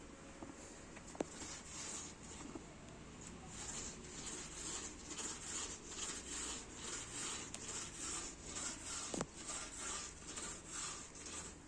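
Soft, rhythmic rustling of hay or straw in a horse stall, repeating a few times a second. There are two sharp knocks, one about a second in and one later.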